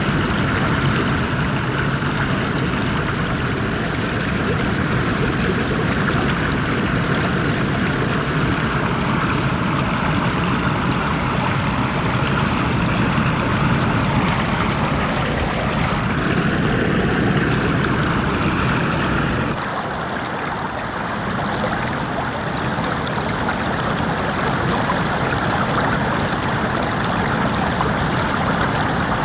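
Water stream running steadily. About two-thirds of the way through, the sound turns thinner and brighter, with less low rumble.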